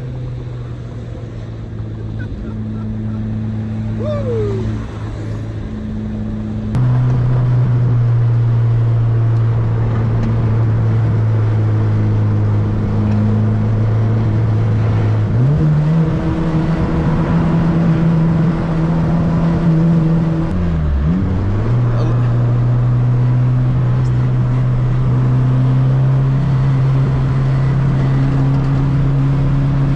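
Turbocharged Honda Civic's engine running at highway speed, heard from inside the cabin with road noise. It gets louder suddenly about seven seconds in. The engine note steps up in pitch about fifteen seconds in, dips and recovers around twenty-one seconds, then climbs slowly.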